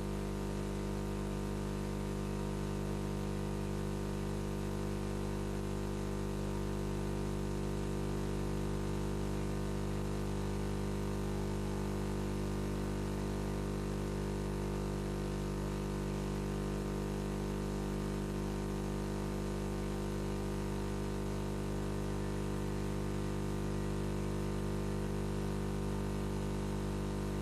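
Steady electrical mains hum with a low hiss from the recording, unchanging throughout, with no crowd, hooves or voice heard.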